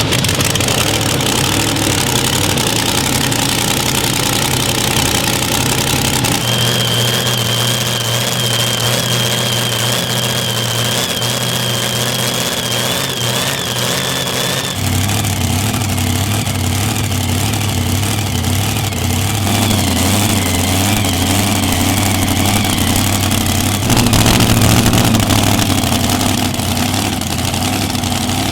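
Pulling-vehicle engines running at a steady idle, the sound changing abruptly several times. A high thin whine sits over the engine for several seconds in the first half.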